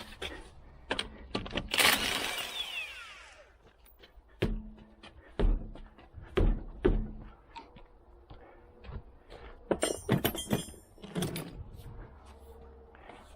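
Tools and metal parts being handled during strut work: scattered knocks and clanks, a short hissing burst about two seconds in, and a quick metallic rattle near the ten-second mark.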